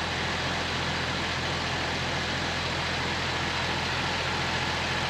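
Ford 1710 tractor's diesel engine running steadily.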